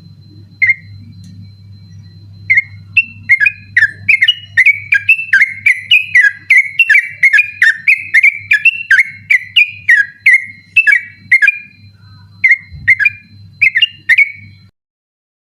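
Yellow-vented bulbul (trucukan) singing its rapid 'ropel' song: one call note, then a fast run of short, clear whistled notes, about three a second, each dropping in pitch, which breaks off abruptly. A low hum lies beneath it.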